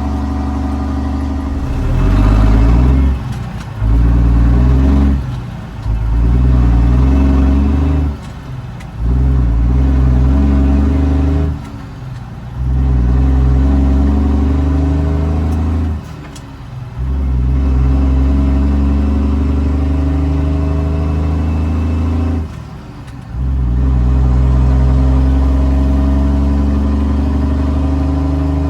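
Straight-piped Cummins L10 inline-six turbo diesel of a 1986 Ford L9000 dump truck pulling a loaded trailer and shifting up through the gears: about seven loud pulls, each cut by a short dip at the shift, getting longer as the gears rise.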